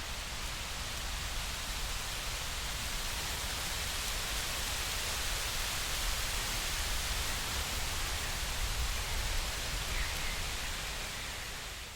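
Steady rushing nature ambience with a low rumble underneath, fading out right at the end.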